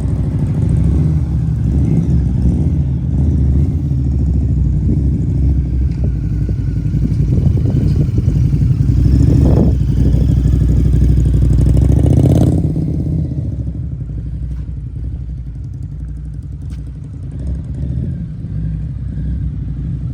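Harley-Davidson V-Rod Muscle's liquid-cooled Revolution V-twin running hard for about twelve seconds, with a couple of brief revs, then easing off to a quieter, lower run.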